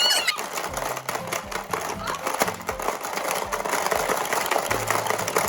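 Rapid, continuous plastic clattering of a frog-eats-eggs tabletop game, with the frog levers being slapped and the little beads rattling, over background music.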